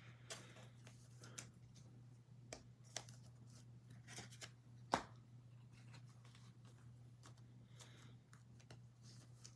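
Faint handling of 2021 Panini Absolute Football trading cards: cards sliding and flicking as a stack is gone through, with scattered soft clicks and one sharper tap about five seconds in, over a low steady hum.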